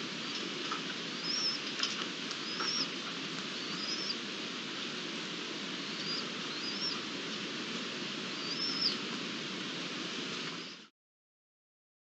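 Steady outdoor hiss from an open-air microphone, with a small bird giving about six short, high, arching chirps spaced a second or two apart and a few faint ticks. The sound cuts off abruptly near the end.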